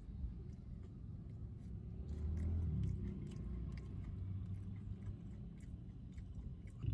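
A person chewing a mouthful of fried-chicken burger, with small irregular crunchy clicks over a low background rumble.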